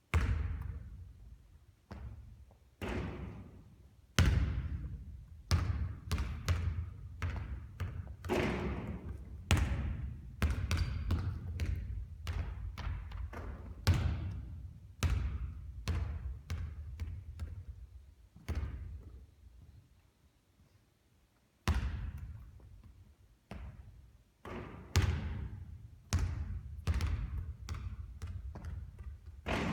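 A basketball bouncing on a hard court again and again during three-point shooting, each bounce a sharp thud that fades out, at an uneven pace, with a pause of about two seconds about two-thirds of the way through.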